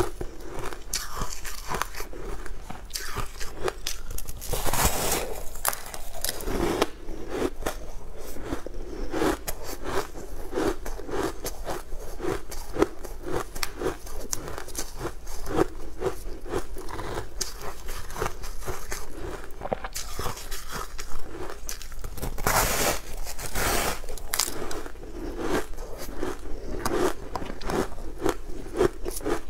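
Close-miked crunchy biting and chewing of a frozen bar coated in green crumbs, a steady run of small crunches. Two louder crunching bites come about five seconds in and again about two-thirds of the way through.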